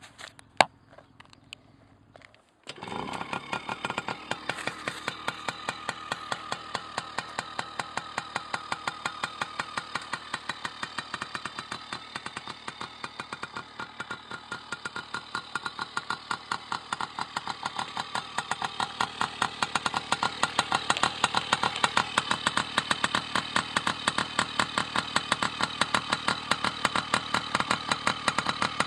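A few faint clicks, then a two-stroke 50cc PW50-type mini bike engine starts about three seconds in and idles with an even, rapid popping beat, getting somewhat louder later on.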